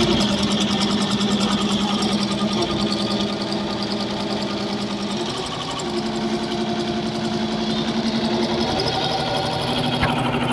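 LEO embroidery sewing machine running and stitching with a fast, even needle clatter. Its hum shifts pitch a few times, around the middle and again near the end.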